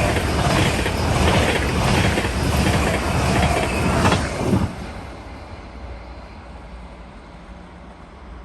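A train passing along the station tracks: loud wheel-on-rail noise with a rhythm of wheel clacks, which drops away suddenly about four and a half seconds in, leaving a quieter fading rumble.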